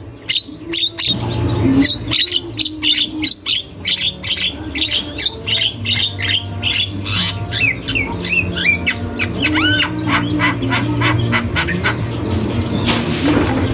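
Javan myna (jalak kebo) calling without pause: rapid harsh chattering strokes mixed with short whistles that rise and fall, over a steady low hum. A brief rushing noise comes near the end.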